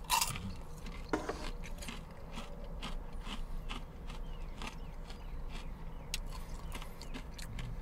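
Close-up chewing of a bite of crispy gravy-dipped fried chicken: irregular crunches and wet mouth clicks, over a low steady hum.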